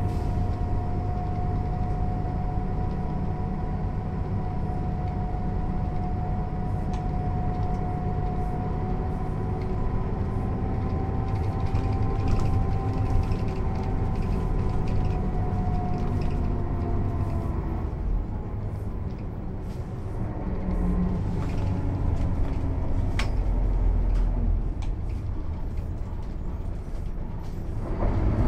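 Mercedes-Benz O 407 city bus's diesel engine running under way, with a steady whine over the engine note that fades about two-thirds of the way through. The engine then eases off, pulls up again, and dips once more just before it rises sharply at the very end, with light rattles throughout.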